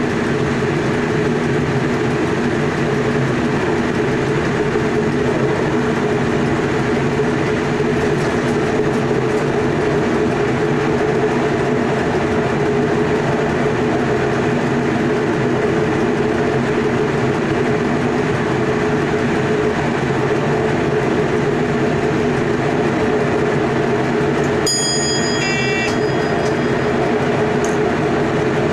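Cab of an electric passenger train running at steady speed: continuous rumble of wheels on rail with a steady multi-tone hum. About 25 s in, a short ringing tone sounds for about a second, typical of the cab signal bell for passing a signal at proceed.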